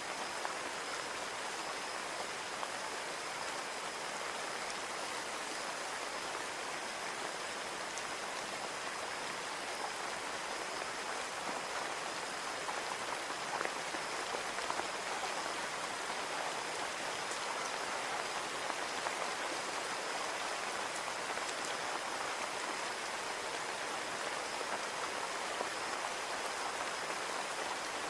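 Steady rain falling on a window, an even patter with occasional sharper drop taps.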